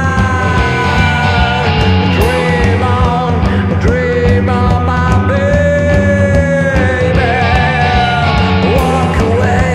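Surf-punk rock song played by a band on electric guitar, bass and drums, with a pitched melody line over a steady driving beat.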